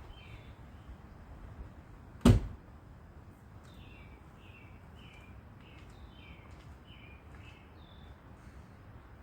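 A bird calling over and over in short, downward-sliding chirps, with a single sharp knock a little over two seconds in that is the loudest sound.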